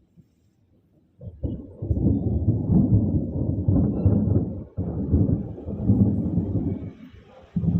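Thunder rumbling: a low rolling rumble builds about a second in and swells and fades for several seconds, with a short loud burst near the end that cuts off abruptly.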